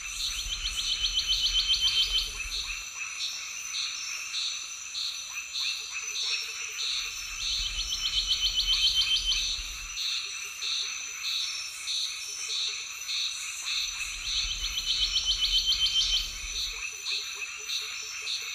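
A rapid croaking trill that recurs about every seven seconds, with short evenly spaced chirps between the trills over a steady high-pitched whine.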